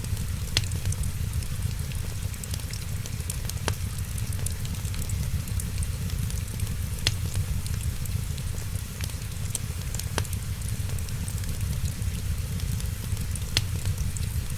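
Wood fire crackling steadily, with many small ticks and a sharp pop every few seconds, over a low rumble and the hiss of rain.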